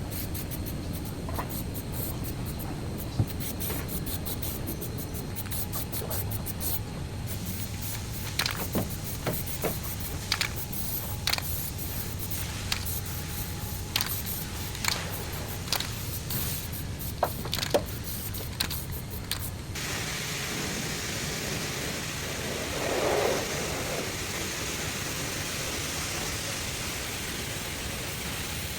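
A steady hiss with a run of sharp, separate taps through the middle. About two-thirds of the way through, the hiss turns brighter, with a short swell soon after.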